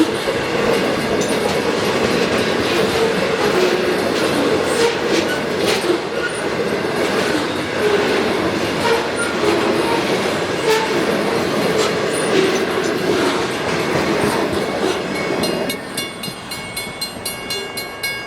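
Railcars of a continuous welded rail train rolling past: a steady loud rumble with occasional sharp clicks and brief squealing tones from the wheels and rail load. About 16 seconds in the sound drops noticeably quieter.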